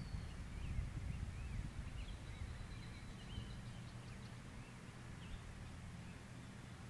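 Small birds chirping, many short rising and falling calls, over a low rumble that slowly fades.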